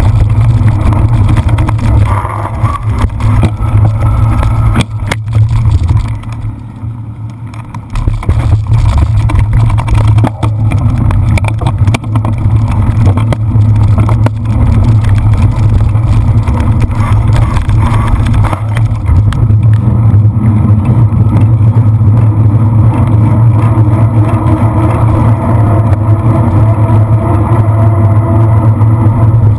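Wind rumbling over the microphone while a cyclocross bike is ridden over rough ground, with frequent clicks and knocks of the bike rattling. The rumble eases for a couple of seconds about six seconds in.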